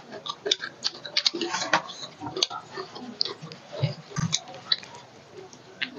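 Eating sounds of roast chicken eaten by hand: chewing and lip smacking in quick short clicks, busiest in the first two and a half seconds. A couple of soft low thumps come about four seconds in.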